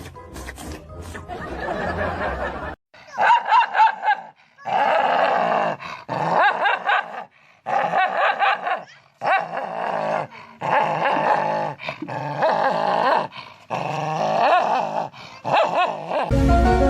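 A dog vocalizing in a long series of drawn-out, wavering calls, each a second or so long with short breaks between them, somewhere between howling and whining.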